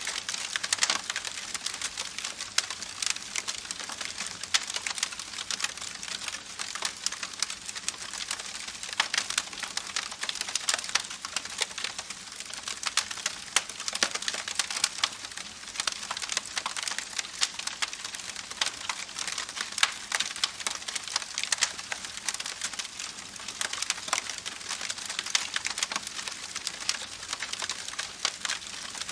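Campfire burning with steady dense crackling and frequent sharp pops over a soft hiss.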